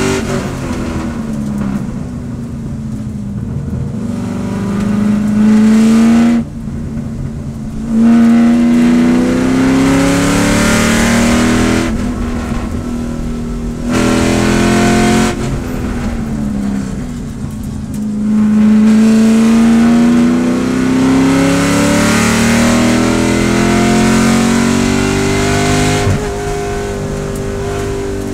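A C5 Corvette race car's V8, heard from inside the cabin at racing speed, revving up hard several times and dropping off each time the driver lifts for a corner.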